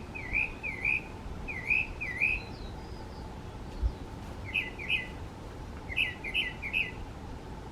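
Northern mockingbird singing: short, sharp chirped notes repeated in groups, first as pairs and then as quicker runs of three and four. A low thump comes near the middle.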